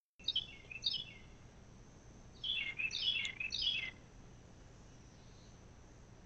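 A songbird outdoors singing short phrases of high notes that step quickly downward in pitch. Two phrases come near the start and three follow close together in the middle, over a faint steady background hiss.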